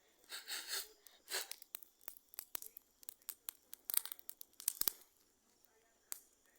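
Dry brush and twigs crackling and crunching. A few rustling crumples in the first second and a half, then a run of sharp, irregular snaps and crackles, with one last snap near the end.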